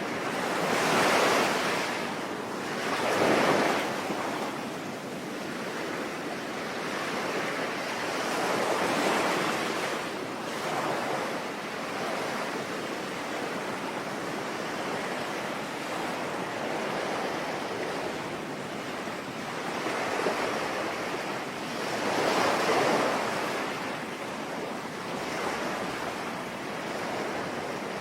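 Ocean waves surging and breaking over a steady hiss of rain, rising in slow swells several times, the largest near the start and about two-thirds of the way through.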